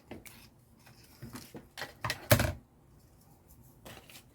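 Scissors snipping and paper or card being handled, heard as a string of short clicks and rustles, with one louder knock a little past two seconds in.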